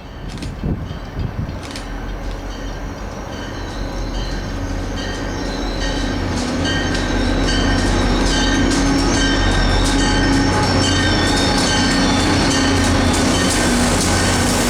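Diesel-hauled train approaching and running by, growing louder over the first several seconds and then holding steady. A low engine drone lies under rapid wheel clicks over the rail joints and some high wheel squeal.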